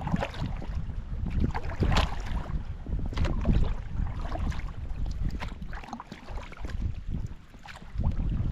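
Wind buffeting the microphone in a low, steady rumble, with irregular splashes of kayak paddle strokes and choppy water against the boat.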